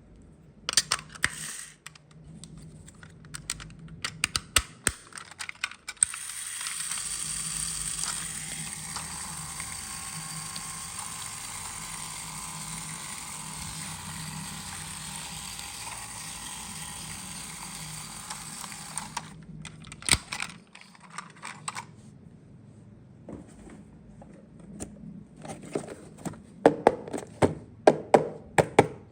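Small hard plastic toy pieces being handled, with sharp clicks and taps. A steady hiss with a faint low hum under it runs for about thirteen seconds in the middle, and the tapping picks up again near the end.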